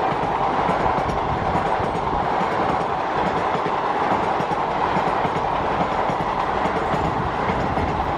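Passenger coaches of an express train running past close by at speed: a steady, loud rush of wheels on rails.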